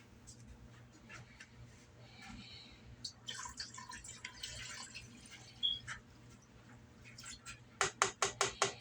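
Water being added to a cooking pot, with splashing and dripping and scattered clinks of kitchenware, then a quick run of about six sharp taps near the end.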